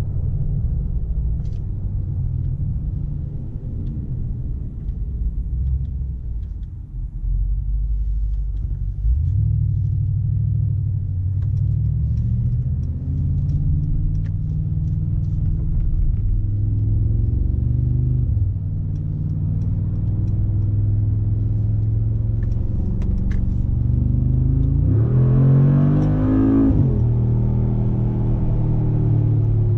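Mercedes-AMG G63's twin-turbocharged 4.0-litre V8 running under way with a low drone. Its pitch climbs through a gear in the middle and drops at the shift, and near the end it gives a quick sharp rise and fall in revs.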